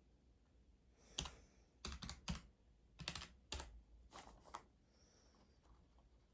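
Faint key presses: about ten short, irregular clicks clustered between one and five seconds in, as keys are tapped on a desk device.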